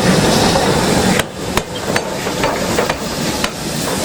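A train running through, a loud even rumble that drops away about a second in, followed by a string of sharp, irregular metallic knocks.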